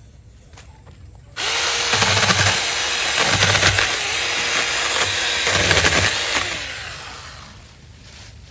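SeeSii 6-inch cordless mini chainsaw starting about a second and a half in, its electric motor whining at a steady pitch as it cuts through tree branches, then winding down near the end.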